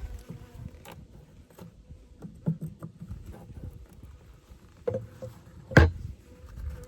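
Wooden knocks and taps of Layens hive frames and hive parts being handled, several irregular knocks with the loudest just before the end.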